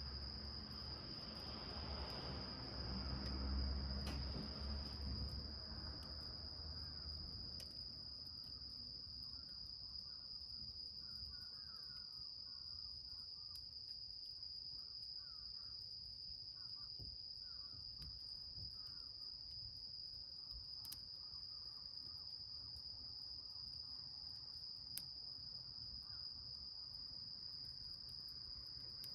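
Insects trilling steadily at one high pitch without a break. A low rumbling noise swells in the first few seconds and fades, and a few faint clicks and soft chirps come and go.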